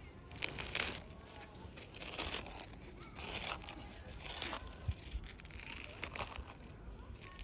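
Short irregular bursts of crinkling and rustling as something is handled and taken out of its container.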